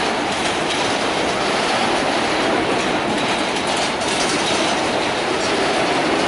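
Freight train of covered hopper cars rolling past close by: a steady, loud rolling noise of steel wheels on the rails.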